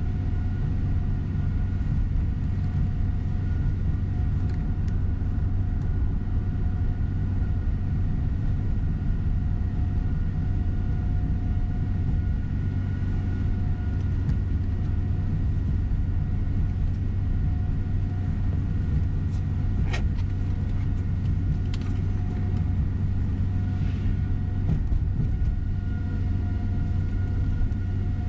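Steady engine and road rumble heard inside a moving coach bus, with a faint steady whine over it and a couple of light clicks about twenty seconds in.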